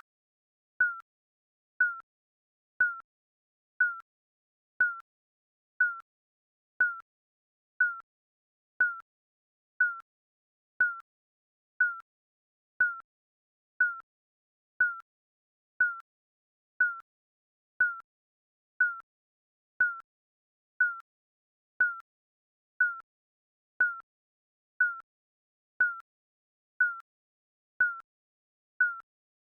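Digital countdown-timer beep: one short, high electronic beep each second, marking off the seconds.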